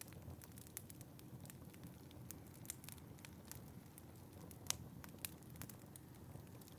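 Wood fire crackling in a fireplace: frequent small sharp pops and snaps, the loudest about two-thirds of the way through, over a low steady rumble.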